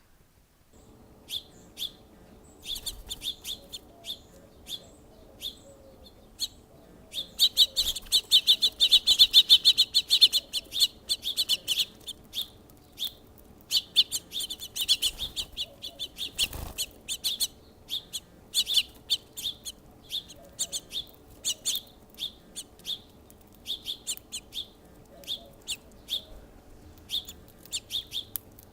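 Small songbirds chirping, mostly short single chirps, with a stretch of rapid, continuous chirping about a quarter of the way in. A faint steady hum runs underneath, and there is a single low thump a little past the middle.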